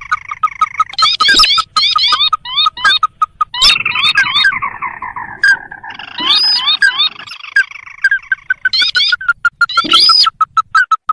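Recorded crake calls played as a bird-trapping lure: fast series of short rising notes, several birds overlapping, with sharp clicks scattered through and a short falling trill about five seconds in.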